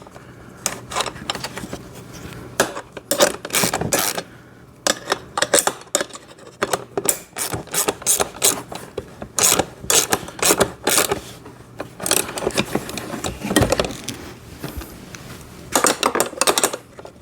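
A nut being tightened onto the handlebar bolt of a kids' ride-on motorcycle with 12 mm and 13 mm wrenches: irregular runs of sharp metallic clicks, with short pauses between them.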